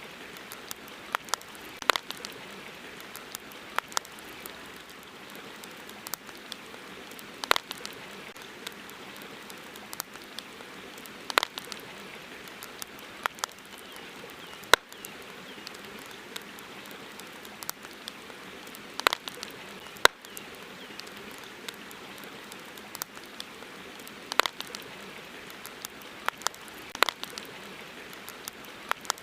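Wood campfire crackling: sharp, irregular pops and snaps every second or few, over a steady hiss.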